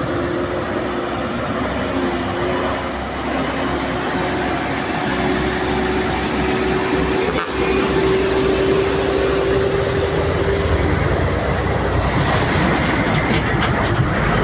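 A heavy truck's engine running steadily, with a sustained whine that rises a little in pitch midway and fades out about eleven seconds in.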